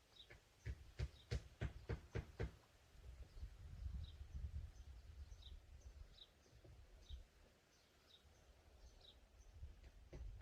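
A bird repeating a short high chirp about once a second. In the first few seconds there is a quick run of sharp knocks and clicks from handling, over a low rumble.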